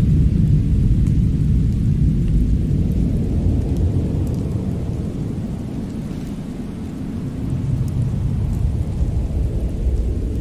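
Fireplace fire burning with a steady low roar that eases off about two-thirds of the way through and then swells back. A few faint crackles come through over it.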